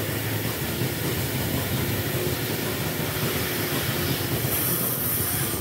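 Dairy milking-shed machinery running steadily with a low hum and hiss, and a brief higher hiss near the end.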